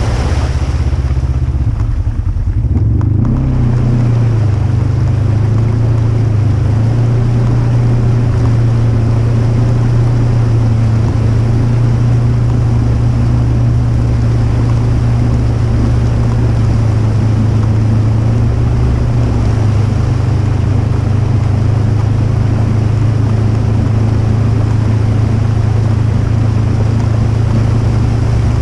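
Polaris RZR 1000 side-by-side's engine running under way at a steady speed, a loud low drone that wavers a little in pitch over the first few seconds and then holds even, under a steady hiss.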